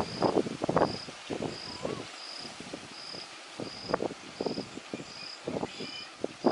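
A short high chirp repeating evenly, about every two-thirds of a second, typical of a cricket or other insect. Under it are irregular low rustles and knocks, which are the loudest sounds.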